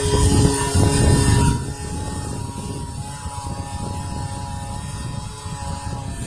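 Leaf blower engine running, blowing out gutters; about a second and a half in it drops noticeably quieter and its pitch shifts, then runs on steadily.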